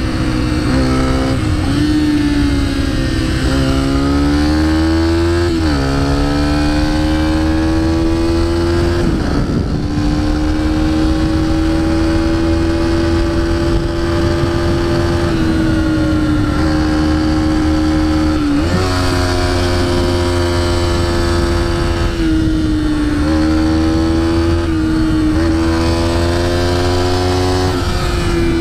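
Pit bike engine running hard under held throttle, its pitch mostly steady. The revs climb a few seconds in, then fall, and there are brief throttle dips about a third and two thirds of the way through.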